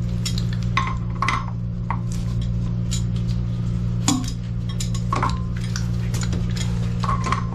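Metal tools and fittings being handled, with scattered short clinks and taps, over a steady low hum.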